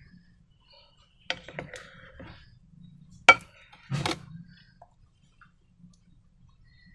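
Handling noise from balloons and slime: a few sharp clicks and crackles, with the loudest snap about three seconds in and another burst of crackling just after it.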